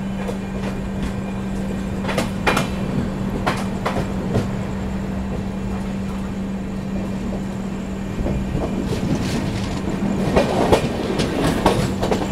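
Passenger train running along the track, with a steady hum and scattered sharp clicks of wheels crossing rail joints. The running grows louder and the clicks come thicker about eight seconds in.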